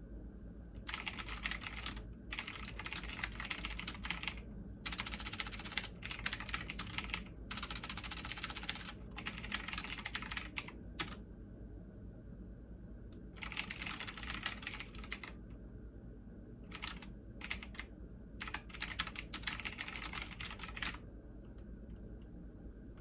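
Computer keyboard typing in runs of a few seconds separated by short pauses, with a longer pause about 11 seconds in and a few scattered keystrokes before a last run that stops about 21 seconds in.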